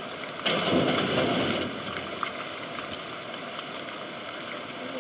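Steady rain with scattered drips. About half a second in, a louder rush of water sets in suddenly and eases off over a second or so.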